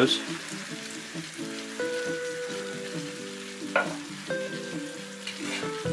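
Chicken thighs, onions and garlic sizzling in a frying pan, with one sharp knock of a utensil or pan a little before four seconds in.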